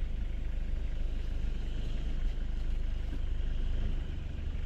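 Steady low rumble of a vehicle engine running, with a hiss of road or mud noise over it.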